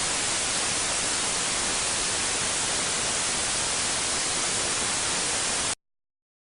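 Steady hiss of a rolling-element bearing as heard through a Kittiwake Holroyd ultrasonic/acoustic-emission monitor, with no distinct clicks or knocks. It cuts off suddenly about a second before the end.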